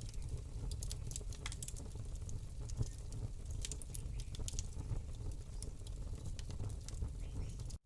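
Campfire crackling: irregular sharp pops and snaps of burning wood over a low steady rumble, cutting out for an instant near the end.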